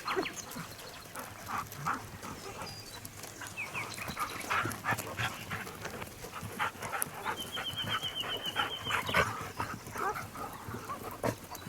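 A dog close by, making a string of short, irregular sounds, with birds chirping around it. A bird gives a quick run of rapid repeated notes about two thirds of the way through.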